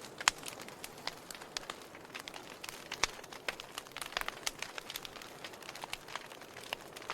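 Wood fire crackling: irregular sharp pops and snaps over a soft steady hiss, the loudest pop just after the start.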